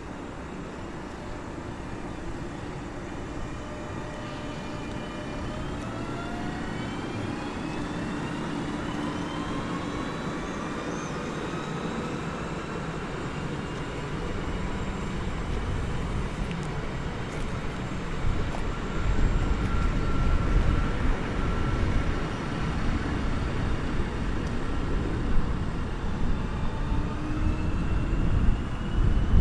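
Train accelerating: a whine of several tones climbing steadily in pitch, under a rumble that grows louder in the second half.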